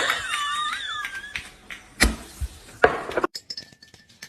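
A pet parrot's short warbling whistle that bends up and down, then two sharp knocks a little under a second apart.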